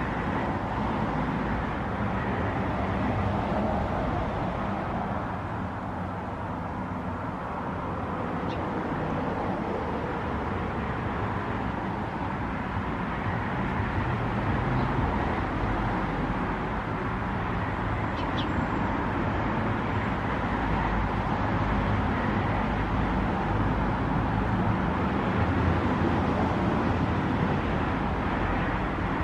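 Steady outdoor background noise like distant road traffic, with a few brief, faint high chirps around a third and two-thirds of the way in.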